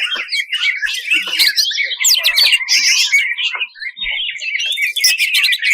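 Greater green leafbird (cucak ijo) singing a fast, harsh stream of chirps, rattles and quick rising and falling whistles, with hardly a break.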